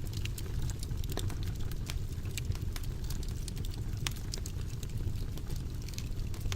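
Fire burning in a fireplace, crackling with many small sharp pops scattered unevenly over a steady low rumble of flames.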